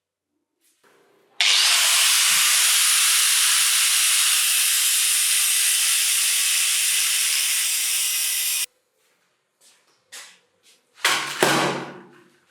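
A loud, steady hiss of pressurised air or spray lasting about seven seconds, starting and stopping abruptly. Near the end, a short knock on a metal part that fades out over about a second.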